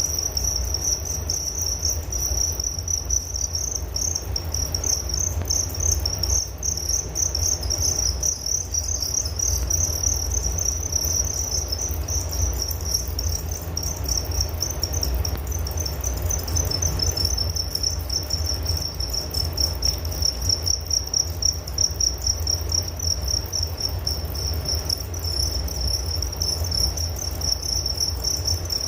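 Crickets chirping in a continuous, high-pitched pulsing trill, over a low steady rumble.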